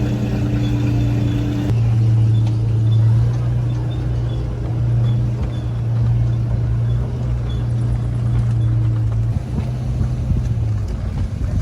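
Steady low drone of a motor vehicle's engine running, with a shift in the drone about two seconds in and again near the end.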